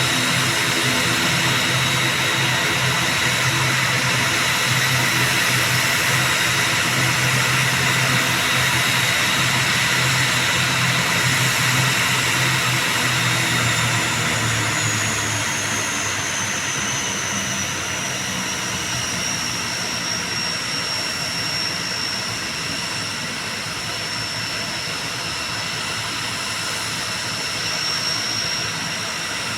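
ATR 72-600 turboprop engines running with a steady low hum under a high-pitched whine. About halfway through the low hum fades, and the whine glides lower and then holds steady.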